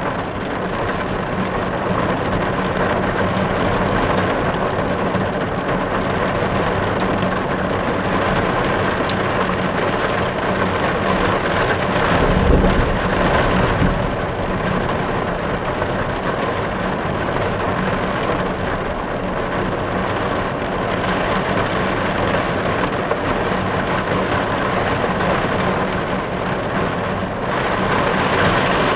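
Steady rain drumming on a car's roof and windows, heard from inside the car. A low rumble swells briefly about twelve seconds in.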